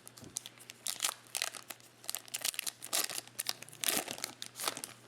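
Plastic-foil wrapper of a trading card pack crinkling and tearing in a run of irregular rustles as the pack is opened by hand.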